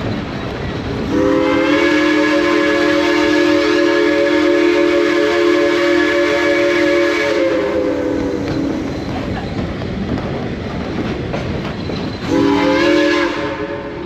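Steam locomotive whistle sounding one long chime blast that sags in pitch as it closes, then a short blast a few seconds later, over the steady rumble of the moving train.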